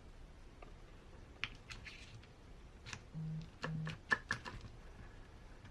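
Small gears and parts of an RC crawler's transmission clicking and tapping as they are handled and fitted onto the shaft: scattered light clicks, thickest three to four seconds in. Two short low hums come just past the middle.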